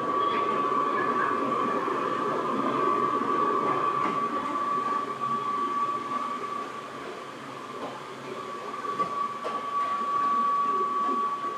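Seibu 2000 series electric train running, with a rumble of wheels on track and a steady high whine over it. The whine dims for a moment a little past halfway, then comes back, along with the running noise.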